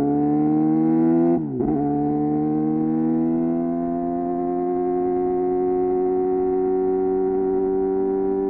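Suzuki GSX-R 750's inline-four engine under way, its pitch climbing. It dips sharply at a gear change about a second and a half in, then rises slowly and steadily as the bike pulls in the next gear.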